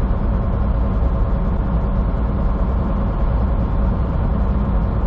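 Steady engine drone and road rumble heard inside a moving semi truck's cab.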